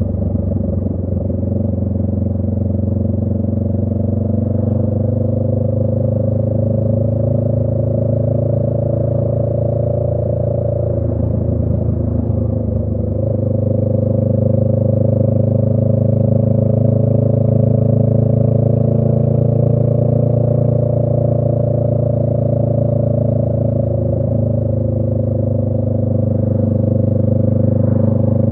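2018 Honda Rebel 500's parallel-twin engine running through a Radiant Cycles Shorty GP aftermarket exhaust at riding speed. The note eases off briefly about eleven seconds in and again around twenty-five seconds, then gets louder after each.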